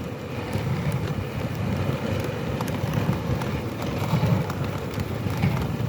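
A dog sled gliding over snow: the runners scrape and rumble steadily, with scattered small ticks, and wind on the microphone.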